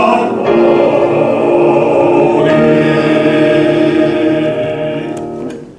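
Choral singing with accompaniment. A long final chord is held and fades out just before the end, the close of a song.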